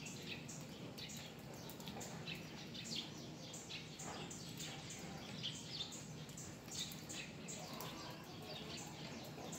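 Small birds chirping: many short, high chirps scattered throughout, over a faint, steady low background hum.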